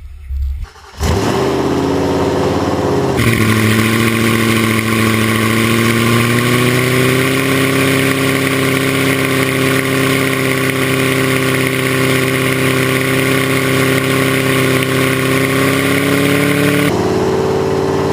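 Ford Coyote 5.0 V8 starting up with no exhaust fitted: it catches about a second in, runs a fast idle that drops in pitch a couple of seconds later, then idles steadily, really loud from the open headers.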